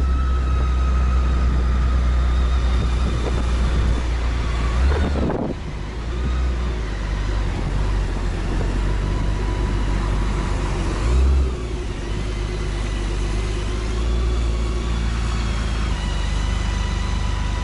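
Road vehicle noise: a steady, heavy low rumble with engine tones. Pitch glides about five and eleven seconds in sound like vehicles passing or revving.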